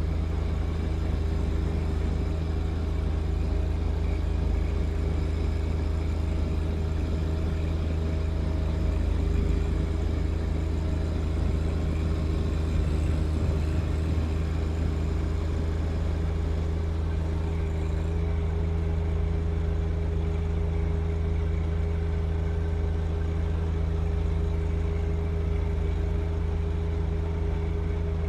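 John Deere 1025R compact tractor's three-cylinder diesel running steadily at constant engine speed, clearing wet snow with its snow blower.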